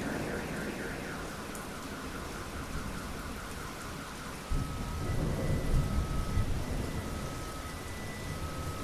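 A thunderstorm: steady rain with rolling thunder. One rumble dies away at the start, and another rolls in about halfway through and swells before fading. Faint, repeating high electronic beeps sound in the background.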